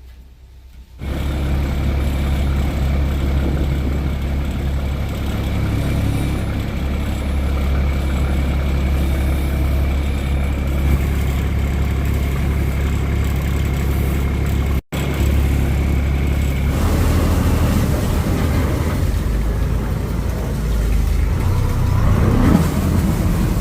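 Boat engine running steadily with a deep drone, starting about a second in. It drops out for an instant midway and its note shifts soon after.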